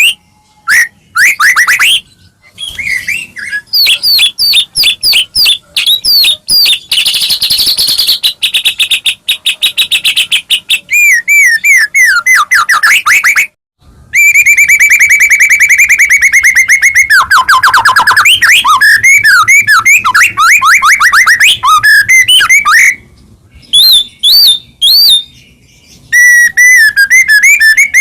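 White-rumped shama (murai batu) singing continuously: a loud, varied song of whistled notes and fast repeated phrases, with a long rapid trill in the middle and a few short breaks.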